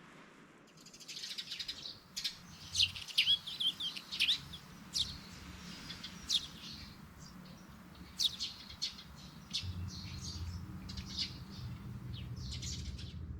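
Small birds chirping: many short, sharp chirps and calls in quick succession over a faint steady background.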